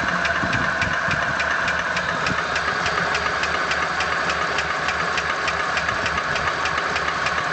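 ZMZ-406 inline-four petrol engine running with an even, rapid knock, about four a second. The owner places the knock at the 4th cylinder and takes it for a piston pin knocking in its connecting rod.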